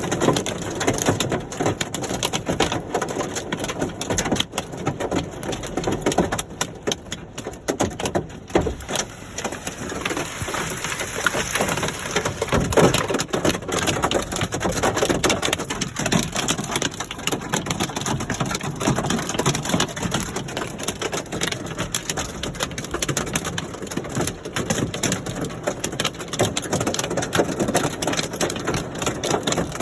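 Hailstones pelting down in a dense, continuous clatter of small hits, easing a little about seven seconds in.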